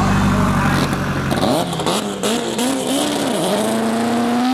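Turbocharged Eagle Talon drag car's engine at the start line: held at a steady rev at first, then blipped up and down with some crackles, then revving up steadily toward the end.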